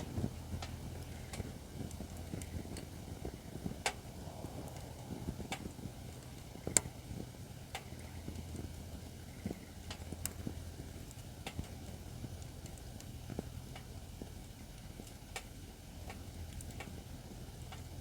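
Acacia firewood burning in a campfire stand, crackling and popping irregularly, with a few sharper pops standing out, over a steady low rumble.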